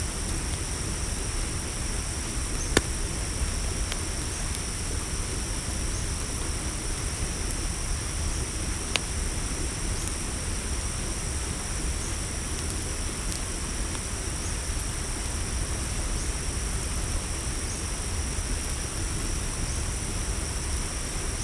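Crickets trilling steadily in a high, unbroken chorus over a low rumble, with a few sharp pops from a crackling campfire, the loudest about three seconds in and another about nine seconds in.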